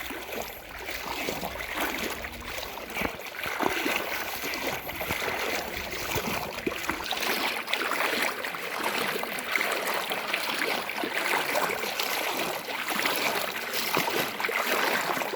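Floodwater flowing and splashing: a steady rush of moving water.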